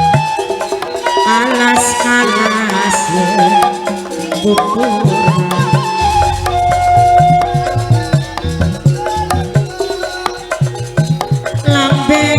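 Live traditional sandiwara ensemble music: hand drums beating quickly under held melodic tones, with a low steady hum joining about halfway through.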